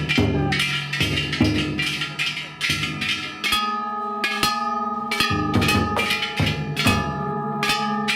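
Ishidori Festival float band: hand-held bronze kane gongs clanging in a fast, ringing rhythm over beats of the big taiko drum. The drum drops out for a few seconds in the middle while the gongs ring on, then comes back.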